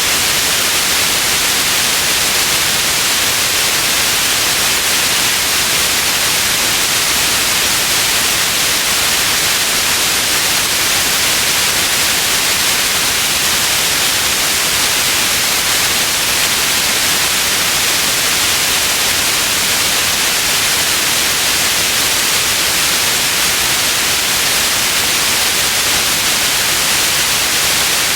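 Steady white noise: an even, unchanging hiss, bright in the highs.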